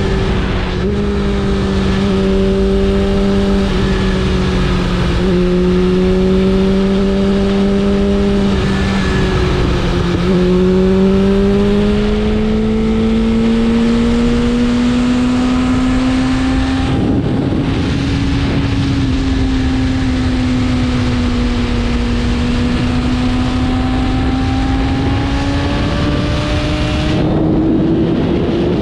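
BMW S1000RR inline-four sport bike engine running under way at a fairly steady pitch, dipping briefly about a third of the way in and then climbing slowly. Two short rushes of noise break in, about halfway and near the end.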